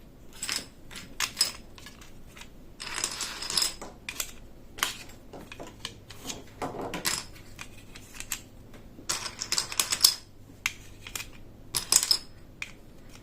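Small plastic toy pieces and packaging being handled: scattered light clicks and taps, with several short bursts of rustling.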